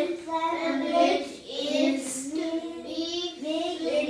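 A child singing in a high voice.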